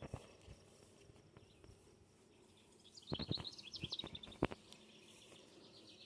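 Faint outdoor ambience with high, rapidly repeating chirping, and a few sharp knocks or taps from about three seconds in.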